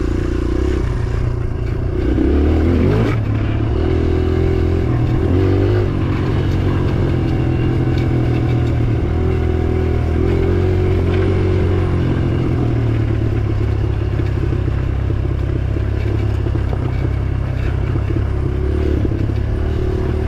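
Dirt bike engine running under riding load, revving up and down as the throttle is worked: the pitch climbs sharply twice in the first six seconds, then holds steadier with smaller rises and falls.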